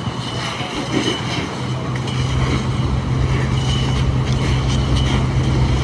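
Steady low vehicle running noise, the hum growing louder about a second and a half in, with wind on the microphone.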